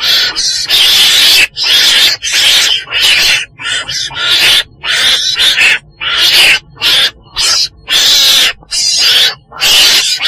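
Weasel (chồn đèn) calling: a rapid run of harsh, hissing cries, each under a second long, repeating with short breaks between them.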